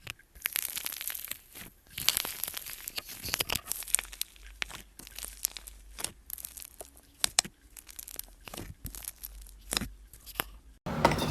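Slime being pressed and stretched by hand, giving dense, irregular crackles and pops. It cuts off suddenly near the end.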